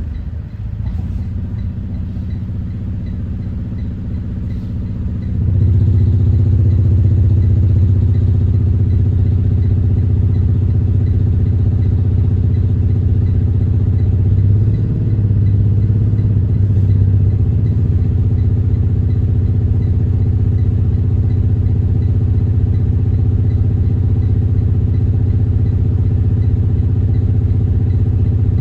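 Detroit diesel engine of a 2021 Thomas Saf-T-Liner C2 school bus running, with a steady low hum that gets louder about five seconds in and then holds steady.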